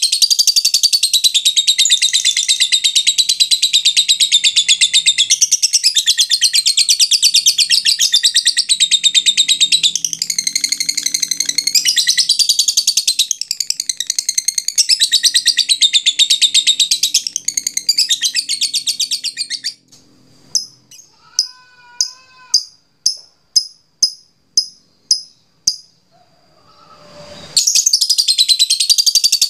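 Lovebird singing a long 'ngekek': a rapid, unbroken high chatter for about twenty seconds. It breaks off into a run of short sharp notes about two a second, then the chatter starts again near the end.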